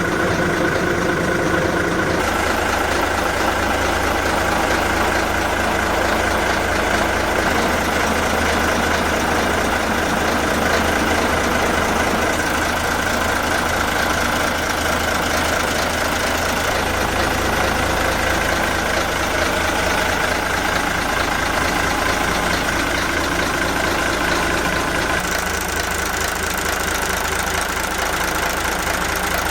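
Yamaha MD580KUH marine diesel inboard engine running steadily, with a constant low hum; its tone shifts slightly about two seconds in and again near the end.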